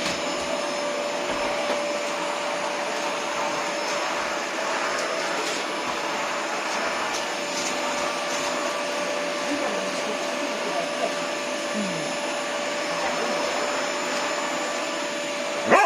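Household vacuum cleaner running steadily: an even rush of air with a constant motor whine. A dog barks once right at the end.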